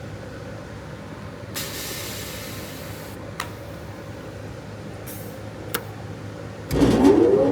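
Steady machine hum with a short hiss about one and a half seconds in and two sharp clicks. Near the end the 15 hp motor of an Ironwood CUT24L up-cut chop saw starts, with a whine rising in pitch as the blade spins up.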